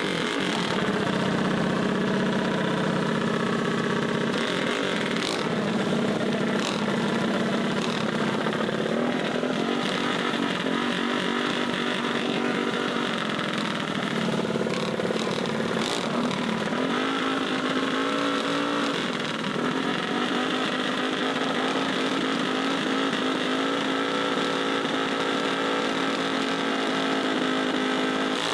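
Small mini bike engines running at a steady idle, several at once, with occasional shifts in engine speed.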